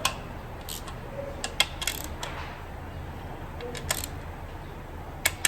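Scattered sharp metallic clicks and clinks of hand tools and parts being handled during engine assembly, with a low steady hum underneath.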